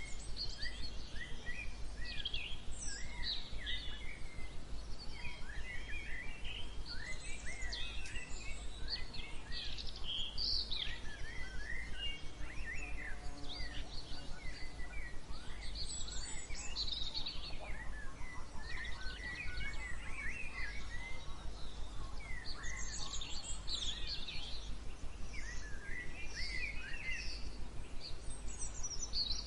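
A dawn chorus of many songbirds chirping and trilling at once in quick, overlapping short phrases, over a steady low rumble.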